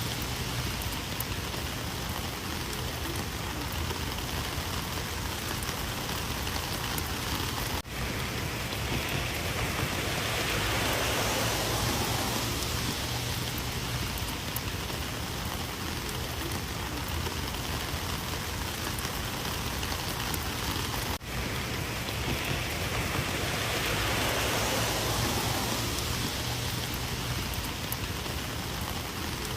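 Heavy rain falling steadily, a dense even hiss of drops on surfaces. There are two momentary dropouts, about eight seconds in and about twenty-one seconds in.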